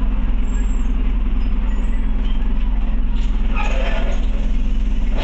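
Scania OmniCity bus engine running steadily, heard from inside the passenger saloon. A brief hissing noise comes about three and a half seconds in.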